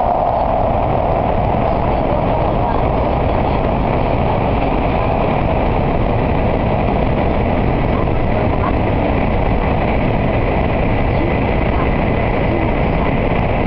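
Steady, loud running noise inside the passenger cabin of an N700A Shinkansen travelling at speed through a tunnel.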